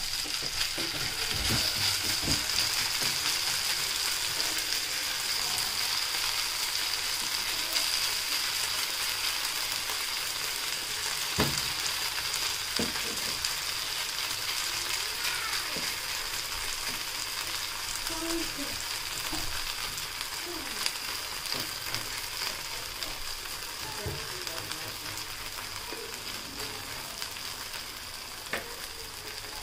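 Mashed potato mixture frying in butter in a pan: a steady sizzle that eases slowly, with a few soft knocks and scrapes of a spatula as the mixture is stirred and pressed.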